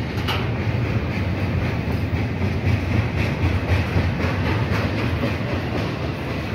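Freight train boxcars rolling past at close range: a steady rumble of steel wheels on the rails, with a run of repeated clicks as the wheels pass over the track joints.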